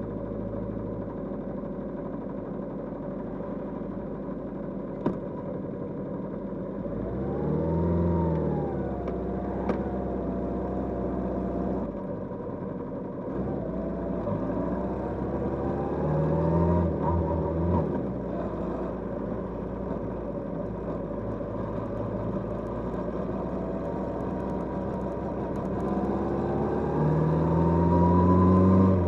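Kawasaki GPz550 inline-four motorcycle engine running on a ride: low and steady at first, then revving up and falling back twice, and climbing steadily near the end before dropping off suddenly.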